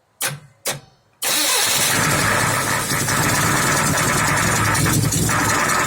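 UAZ/GAZelle engine with some 700,000 km on it and its valve cover off, cold-started: two short sounds, then it catches about a second in and runs steadily at idle.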